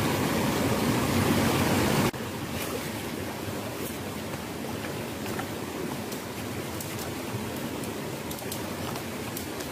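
A louder steady rushing noise cuts off abruptly about two seconds in. Then comes the steady running water of a small rocky stream, with faint scattered clicks.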